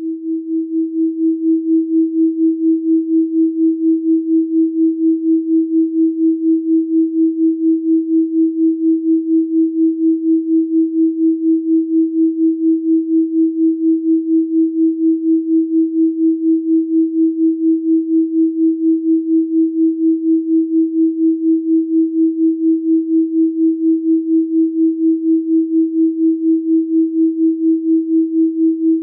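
Electronically generated 324 Hz sine tone, a single steady low hum that fades in over about the first second and then pulses evenly in loudness about four times a second.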